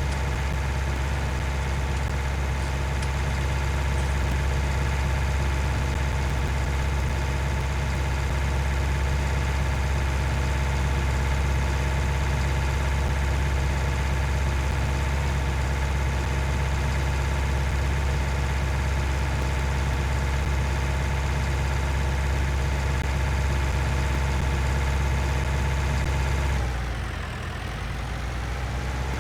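Tractor engine running steadily. About 27 seconds in its speed drops and then picks up again.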